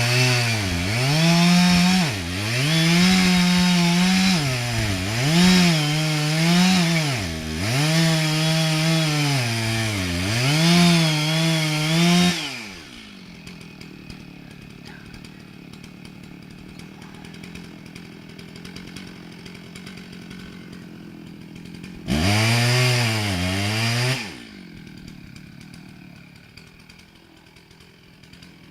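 Chainsaw engine running at high revs, its pitch repeatedly dipping and recovering as it works through the wood for about twelve seconds. It then drops to a quiet idle, revs up loudly once for a couple of seconds about two-thirds of the way through, and settles back to idle.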